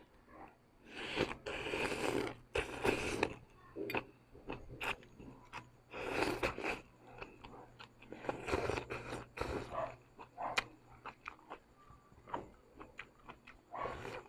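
Close-up eating of Korean noodles: chewing and biting, with several longer noisy mouthfuls and many small wet mouth clicks.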